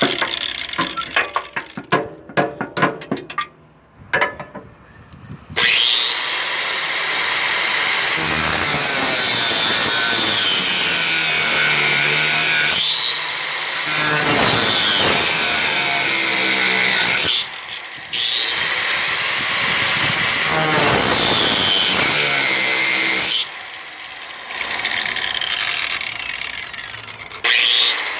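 A power tool cutting through old bolts, running under load in long stretches with its pitch sagging and rising, broken by brief pauses. It starts after a few seconds of clattering knocks.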